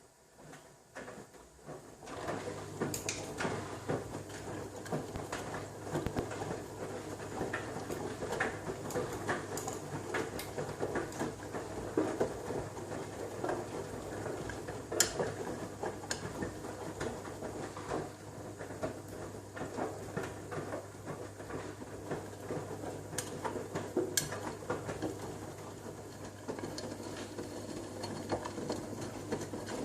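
Washing machine running a wash cycle. About two seconds in, a steady motor hum sets in under continuous pattering and sloshing from the tumbling wet laundry, with a few sharp clicks.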